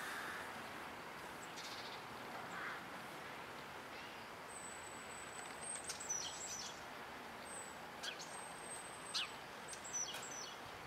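Birds chirping, with short high whistles and quick falling chirps coming from about four seconds in, over faint steady background noise.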